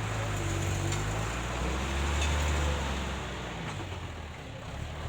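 A monster truck's engine running with a low, steady note that eases off briefly about four seconds in.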